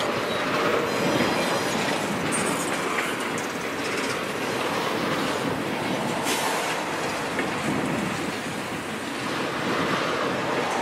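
Empty tank cars of a freight train rolling steadily past: a continuous rumble and rattle of steel wheels on the rails.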